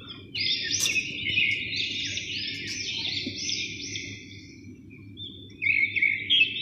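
Birds chirping in a busy run of overlapping high chirps that starts about half a second in, eases off past the middle and picks up again near the end, over a steady low hum.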